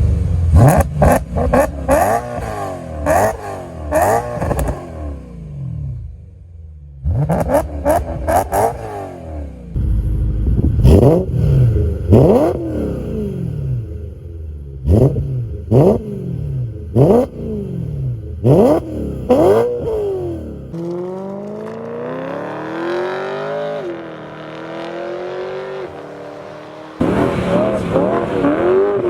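BMW E9X M3 S65 V8 engines on aftermarket exhausts, revved repeatedly in quick blips that rise and fall in pitch, in several short clips joined by abrupt cuts. In the latter part, one longer rev climbs slowly and then falls away.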